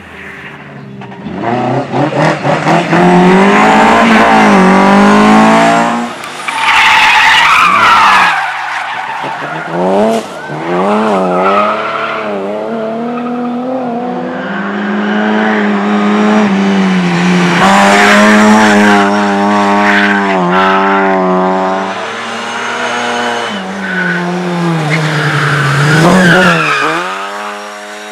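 Rally car engine revving hard at full throttle, its pitch climbing and dropping again and again through gear changes and lifts. About a quarter of the way in the tyres squeal as the car slides, and the engine pitch falls near the end.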